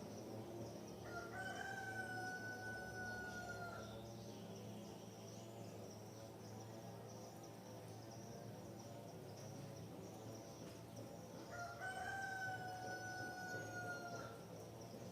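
A rooster crowing twice, about ten seconds apart, each crow one long drawn-out call that falls slightly at the end. A steady high insect chorus runs underneath.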